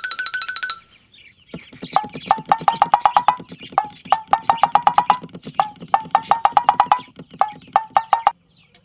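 Rapid, even clicking, about eight clicks a second, with short rising chirping tones in repeating groups of four to six. Before it, a fast ringing rattle that stops under a second in.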